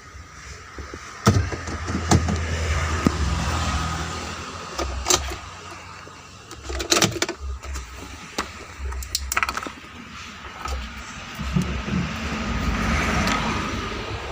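Workshop noise: a handful of sharp metallic knocks and clanks, spaced a second or more apart, over an uneven low vehicle rumble.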